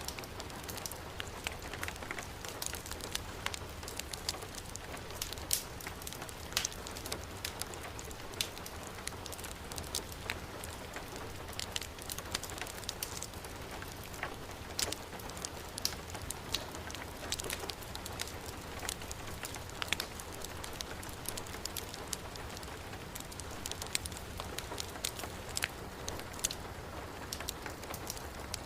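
Heavy rain falling steadily, mixed with a wood fire in a fireplace crackling and popping in irregular sharp snaps.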